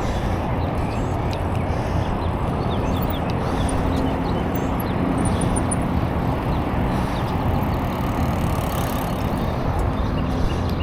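Steady wind rush over a neck-mounted action camera's microphone, with tyre noise from a bicycle riding along a paved path, and a few faint high chirps a few seconds in.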